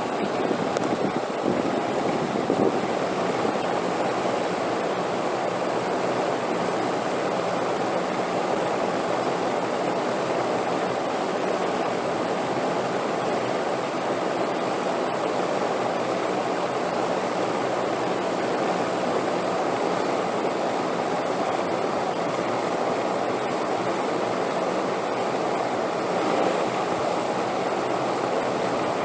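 Wind blowing in a steady, even rush with no gusts or breaks.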